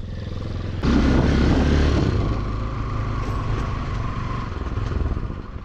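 Motorcycle engine running on a dirt track. It gets much louder suddenly about a second in, then slowly fades away.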